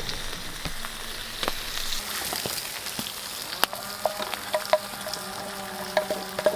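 Bacon and eggs sizzling as they fry over a campfire, a steady hiss with sharp crackling pops scattered through it. From about four seconds in a faint steady whistling tone joins.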